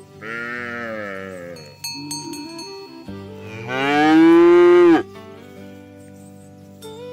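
Cattle mooing twice: a shorter call, then a louder, longer one that rises in pitch before cutting off. Background music plays underneath.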